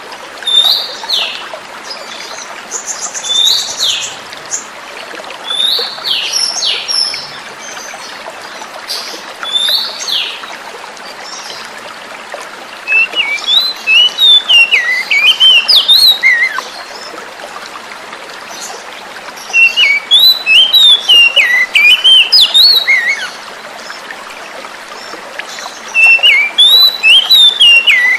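Oriental magpie-robin (kacer) singing over a steady rush of running water. In the first ten seconds or so it gives short downward-sliding whistles every second or two. From about halfway it switches to loud bursts of rapid, varied warbling, each lasting three to four seconds, three times.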